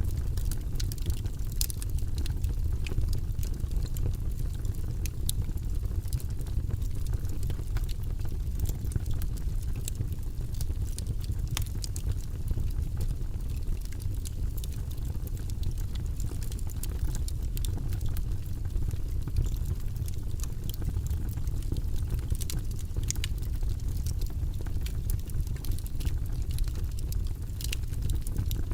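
Log fire burning in a fireplace: a steady low rumble of flames with frequent sharp, irregular crackles and pops from the burning wood.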